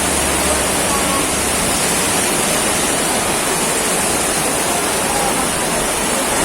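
Heavy tropical downpour: a steady, dense hiss of rain. A low hum stops within the first second.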